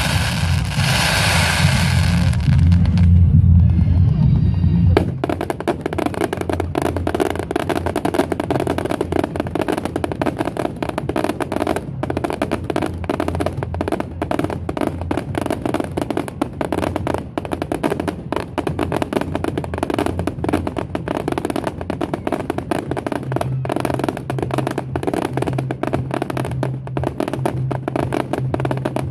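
Fireworks: a loud low rumble and hiss for the first few seconds, cutting off suddenly about five seconds in. After that, a dense run of rapid crackles and pops with music and drums under it.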